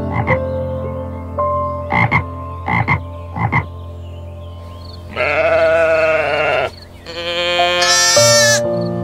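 Frog croaking: four short croaks in the first four seconds, then a longer, louder call about five seconds in. A sheep bleats near the end.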